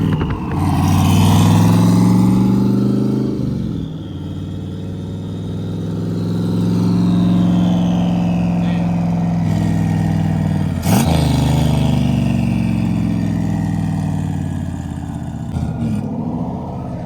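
A car engine accelerating hard, its pitch climbing and then dropping back several times as it shifts up through the gears, with one sharp crack about eleven seconds in.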